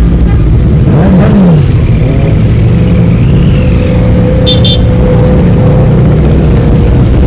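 Motorcycle engines running as a stream of bikes rides past, one revving up and back down about a second in. Two short high-pitched beeps sound about halfway.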